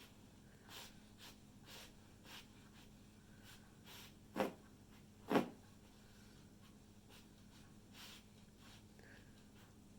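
A beagle making two short, sharp sounds about a second apart, near the middle, amid fainter short sounds.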